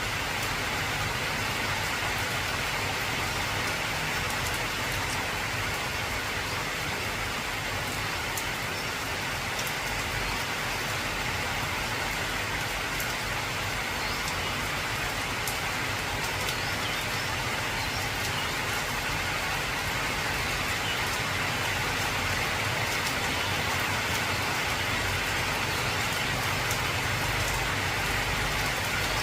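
Heavy rain falling on an old corrugated zinc roof: a dense, steady patter with scattered sharper drop ticks, growing slightly louder in the last third.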